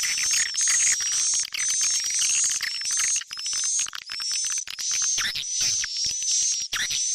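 Swiftlet lure call: a recording of edible-nest swiftlets twittering, played to draw birds into a swiftlet house. It is a steady run of high, buzzy chirps with a thin whistle in each, repeating about twice a second.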